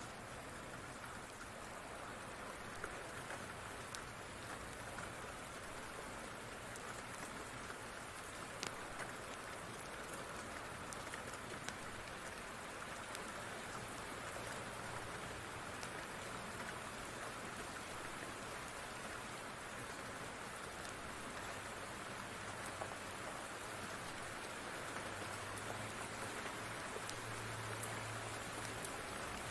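Steady rain falling, with a few faint sharp crackles from a fireplace now and then. A low rumble rises a little near the end.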